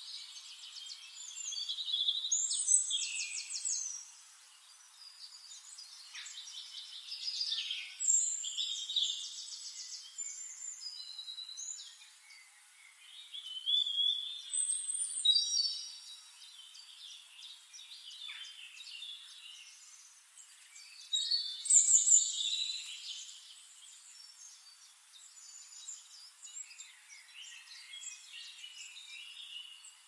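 Several songbirds singing over one another, in louder phrases every several seconds with fast trills among them and quieter chirps in between.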